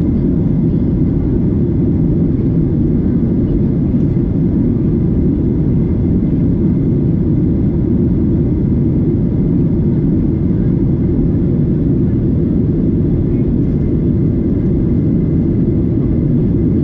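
Steady, loud, low-pitched engine and airflow noise inside the cabin of a Boeing 737-900ER at high thrust during takeoff and climb, from its CFM56-7B turbofans, with a faint steady high whine above it.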